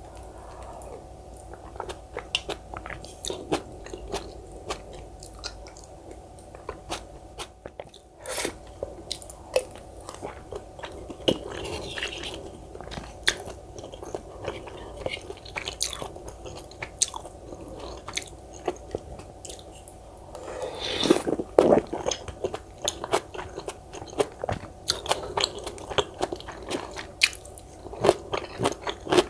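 Close-miked eating: a person chewing and biting, with many small wet mouth clicks and crunches. There is a louder, denser stretch of chewing sounds about two-thirds of the way through.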